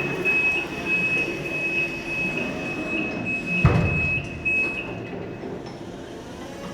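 A reach truck's high-pitched warning buzzer sounds as one steady tone over the rumble of the truck, then cuts off about five seconds in. A single sharp knock comes partway through.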